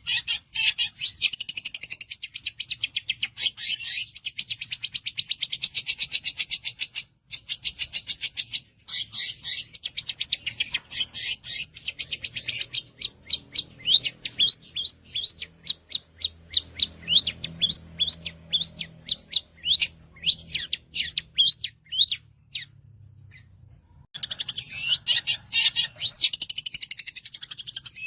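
Long-tailed shrike (cendet) singing: a fast, high-pitched stream of sharp repeated notes, which loosens about halfway through into separate sweeping notes, stops briefly near the end, then starts again as a rapid burst.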